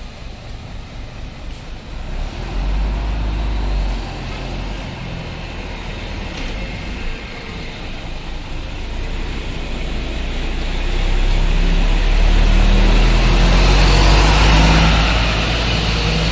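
Heavy diesel bus engine running with a deep rumble. It swells briefly about three seconds in, then grows louder from about ten seconds in and stays loud near the end.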